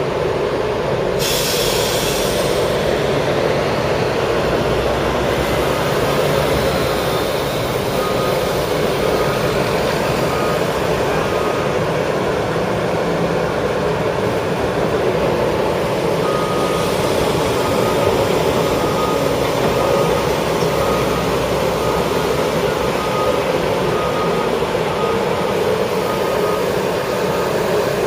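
Heavy road-paving machinery running steadily during asphalt resurfacing, with a brief hiss about a second in. A backup alarm beeps repeatedly, starting about seven seconds in, pausing, and resuming near the middle.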